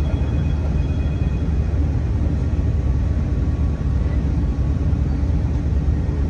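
Steady low rumble of a V/Line Sprinter diesel railcar running along the track, heard from inside the carriage, with a faint high-pitched whine in the first second or two.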